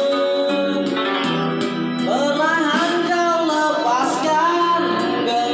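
Music: a solo voice sings a melody with wavering vibrato over a plucked-string accompaniment, starting on held notes and breaking into an ornamented line about two seconds in.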